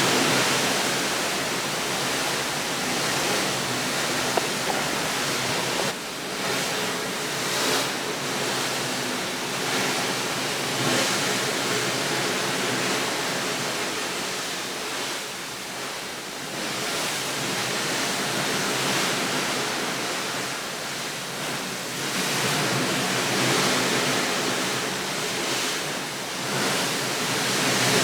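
Steady rushing natural noise, with no distinct events, that swells and eases every few seconds.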